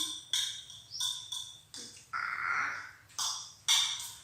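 Baby monkey eating noodles, making strange mouth sounds: short high squeaks and wet chewing noises in a quick series of separate bursts.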